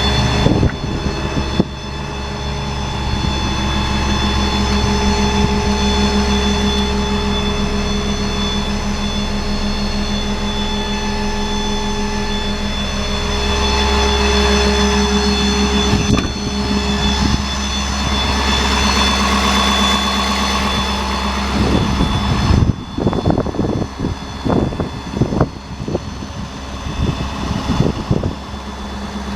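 Ford F550's 6.7 Power Stroke diesel V8 idling steadily. A run of sharp knocks and clatters comes over it in the last several seconds.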